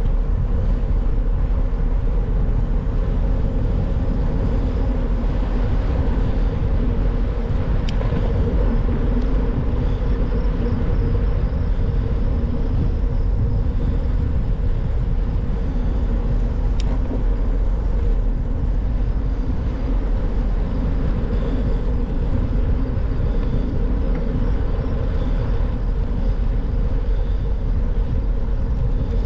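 Steady rumble of riding a bicycle: wind on the microphone and road noise from the moving bike, with a couple of faint clicks.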